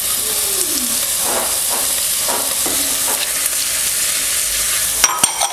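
Bacon, onion and carrot sizzling steadily in an enameled cast-iron Dutch oven as a spatula stirs through them. Near the end a few sharp clinks ring out as a glass bowl knocks the pot while celery is tipped in.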